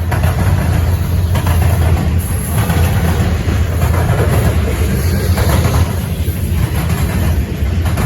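Loaded potash hopper cars of a CN freight train rolling past, a steady low rumble of wheels on the rails.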